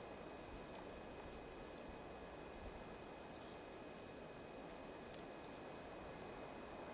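Faint outdoor ambience with a few brief, very high chirps from small birds at a winter feeder.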